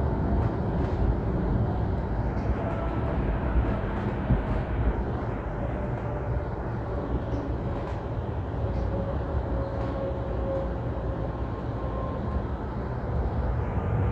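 Light rail train running: a steady low rumble of wheels on track with a faint whine.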